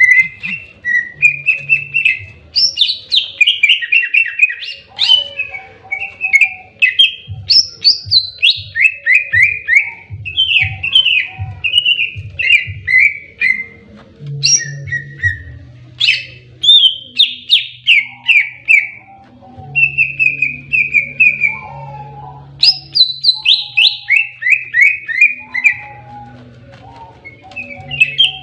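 Green leafbird (cucak ijo) singing in aggressive 'fighting' mode: loud, fast phrases of sharp, downward-sweeping whistled notes, repeated with barely a pause.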